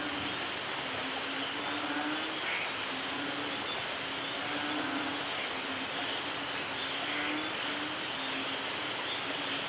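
Steady rain falling, an even hiss of drops. Twice, once near the start and once near the end, a short train of about five high, evenly spaced chirps, like an insect calling, stands out over it; a low steady tone comes and goes about once a second.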